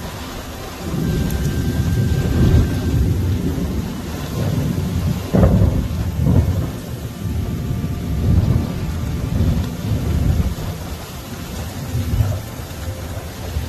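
Heavy thunderstorm: thunder rumbling on and off over steady heavy rain, with a sharper, louder peak about five seconds in.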